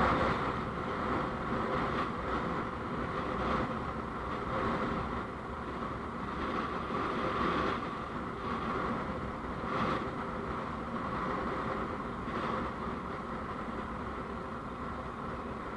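Steady engine and road noise from a moving vehicle, swelling briefly a few times.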